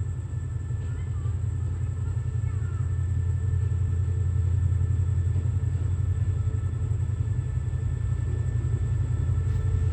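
Low, steady rumble of a diesel-hauled train, slowly growing louder.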